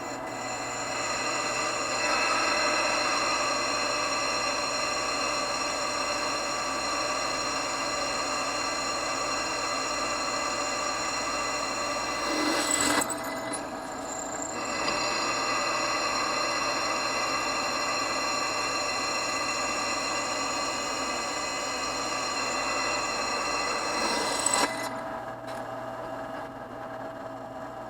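Drill press running and drilling with a steady whine, the bit cutting into metal. It peaks briefly about 12 seconds in and again about 24 seconds in, and goes quieter for a couple of seconds after each.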